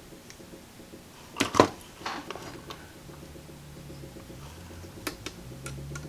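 Small metal clicks and clinks of hand tools working a wire lead, with a quick cluster of clinks about a second and a half in and a few lighter clicks near the end.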